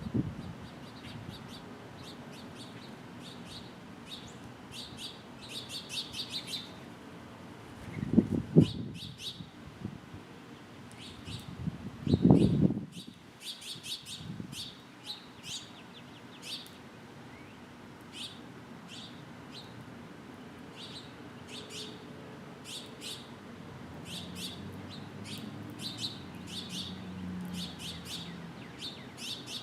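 Birds at a feeder chirping, short high chirps coming singly and in quick runs all through. Twice, about a third of the way in and again a few seconds later, a loud low thump or rush stands out above them.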